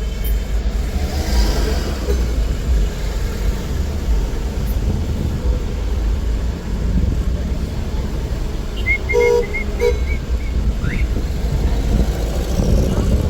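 City street traffic with a steady low rumble from vehicles. Around nine to ten seconds in there is a brief run of short high-pitched notes.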